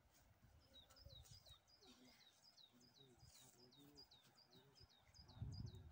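Faint bird call: a short falling chirp repeated about three times a second. A low rumble, like wind on the microphone, comes near the end.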